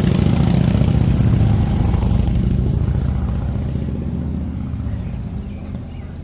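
Motorcycle engine running steadily, its sound slowly fading away.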